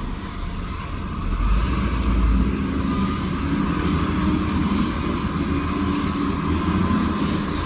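Heavy diesel earthmoving machinery running steadily, with a faint high whine over the engine. The engine rumble swells briefly, louder and deeper, a second or two in.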